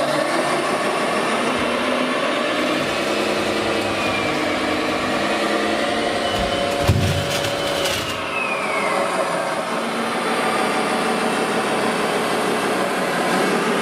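Radio-controlled model construction vehicles running: a steady motor and gear noise with a high whine that rises and falls, and one sharp knock about seven seconds in.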